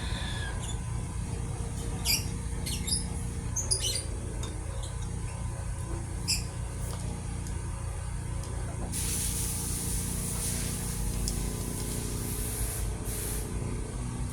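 A steady low hum with a handful of light, sharp clicks in the first half. About halfway through, a high hiss starts and runs for roughly four to five seconds.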